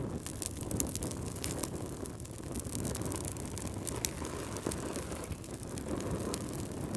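A fireplace fire burning: a steady low rumble with frequent sharp crackles and pops at irregular intervals.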